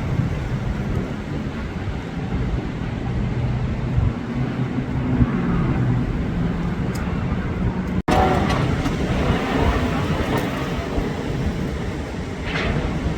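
Strong storm wind roaring in surging gusts and buffeting the microphone. The sound breaks off for an instant about eight seconds in.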